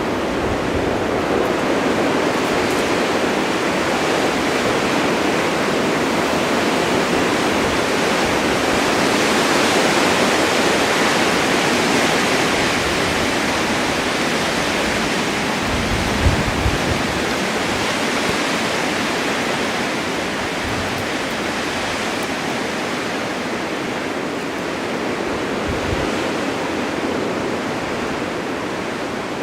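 Blizzard: a steady rushing hiss of wind-driven snow, swelling gently around ten seconds in, with a couple of brief low gusts, one about halfway through and one near the end.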